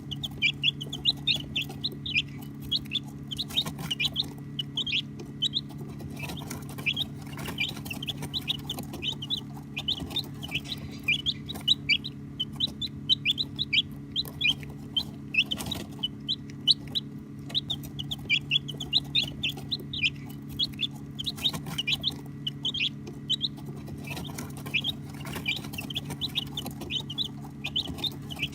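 A group of baby chicks peeping continuously, many short high chirps a second overlapping one another, over a steady low hum.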